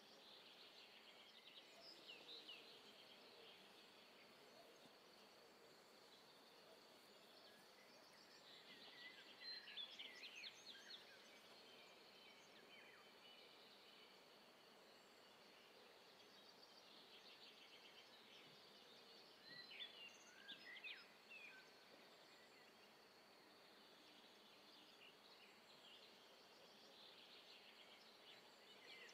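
Faint outdoor ambience with birds chirping in a few short spells, loudest a third of the way in and again about two-thirds through.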